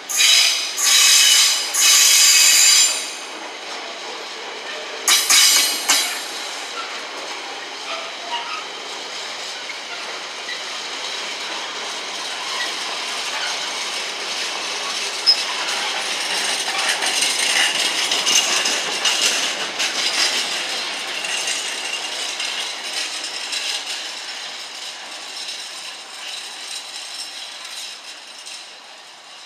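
Train wheels squealing on the rails in three short, loud, high-pitched bursts and once more about five seconds in, followed by the train's running noise and wheel clatter, which builds to its loudest around twenty seconds and then fades away.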